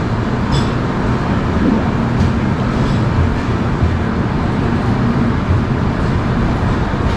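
Duronto Express train running slowly, heard from on board: a steady low rumble of the coach on the track with a faint hum.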